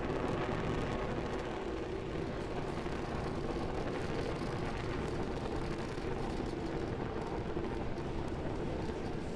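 Falcon 9 first stage's nine Merlin engines firing in ascent, a steady rumble with no change in pitch.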